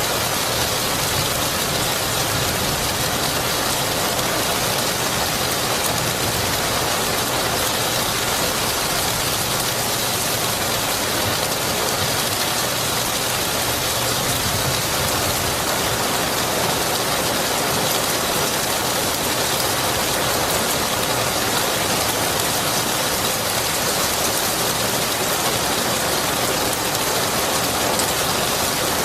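Rain falling steadily, an even wash of drops with no thunderclaps.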